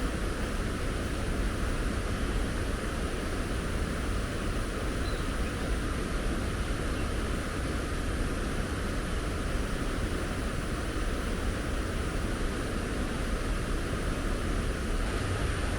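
Strong wind blowing steadily, a continuous rushing noise.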